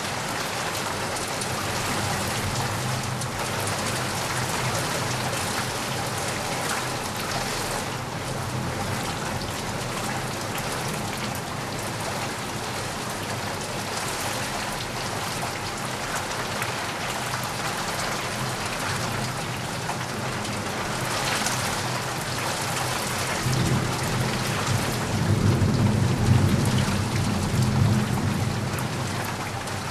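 Steady heavy rain falling on a surface, with a low rumble of thunder rising about three-quarters of the way through and fading toward the end.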